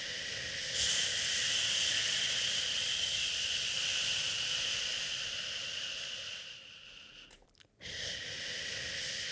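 Shushing, a long steady "shhh" hiss used to soothe a crying baby. It swells about a second in, fades and breaks off briefly near the end, then starts again.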